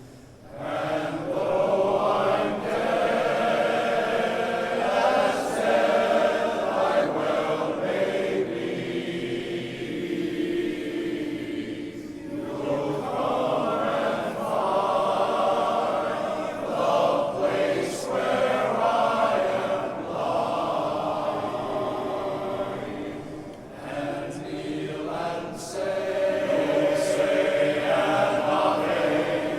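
Men's glee club choir singing a slow ballad in sustained harmony, in long held phrases with brief breaks for breath.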